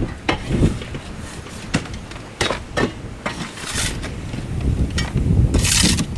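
Shovel scraping and scooping old litter out of a chicken coop: irregular scrapes and knocks, with a longer scraping rush near the end.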